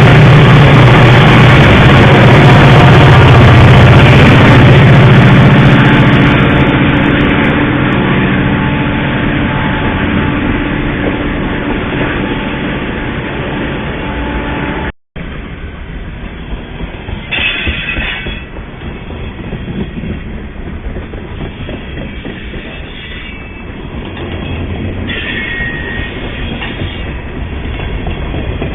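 Train passing close by: a diesel locomotive's engine runs very loud for about the first fifteen seconds, then, after a sudden cut, rail cars roll past with a rattling clatter and a couple of brief wheel squeals.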